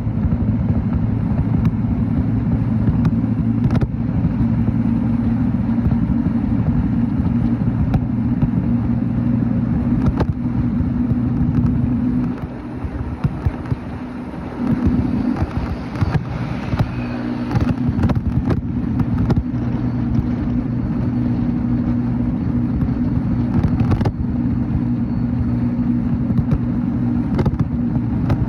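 Motorcycle engine running steadily under way, with road and wind noise. The engine note drops away for a few seconds near the middle, then returns.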